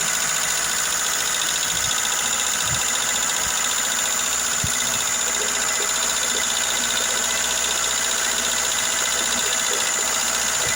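Car engine idling steadily with a ticking from its hydraulic valve lifters, the lifter noise the owner is trying to cure with light motorcycle oil added to the engine oil.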